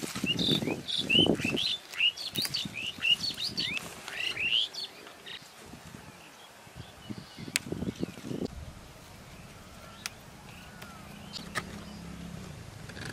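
Small birds chirping in a rapid run of short, high chirps through the first few seconds, then only faintly.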